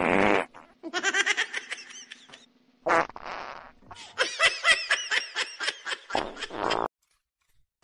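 Fart noises and runs of rapid, pulsing laughter, which stop about a second before the end.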